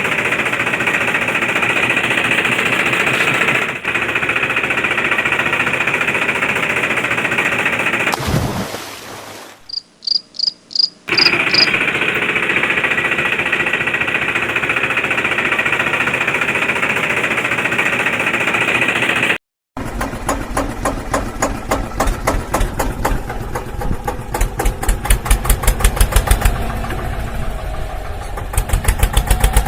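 Toy construction vehicles' motor and rattling mechanical noise in several cut segments: a steady rattling drone, a short break with six quick high beeps about ten seconds in, then a fast, even clicking rhythm that gets louder near the end.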